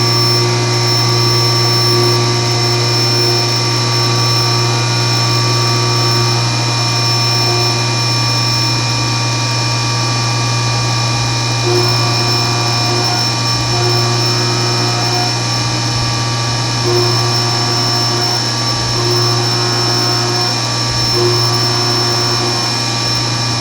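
Milling machine cutting 6061-T6 billet aluminum: a steady low machine hum and a constant high whine, with mid-pitched tones that come and go every second or two as the cutter engages the work.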